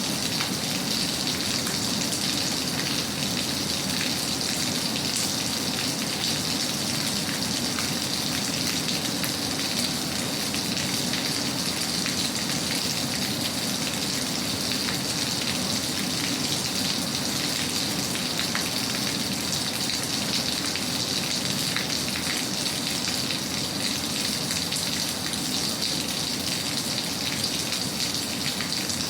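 Steady rain falling: an even, continuous hiss with scattered faint drop ticks and no change in level.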